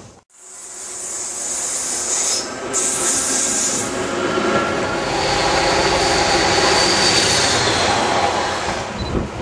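Passenger train passing a station platform: steady rolling noise of the coaches' wheels on the rails, rising after a brief silence at the start, with a thin high whine from the wheels partway through.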